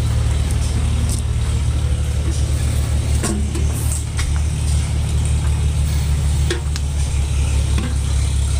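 An engine running steadily close by, a low, fast, even pulse, with a few light knocks about three seconds in.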